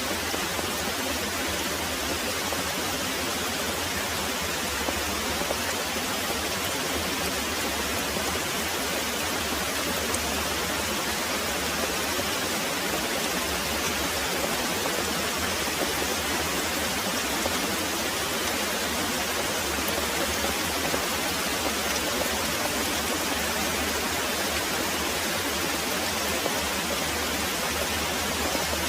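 Very heavy rain pouring steadily, an even hiss with no let-up.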